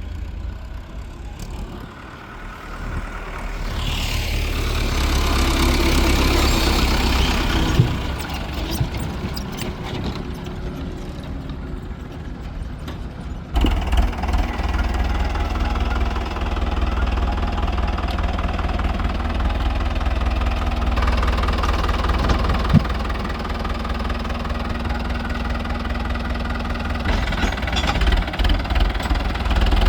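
Diesel tractor engines running under load with loaded trolleys, getting louder about four to eight seconds in. The sound changes suddenly about 13 seconds in, then runs on steadily.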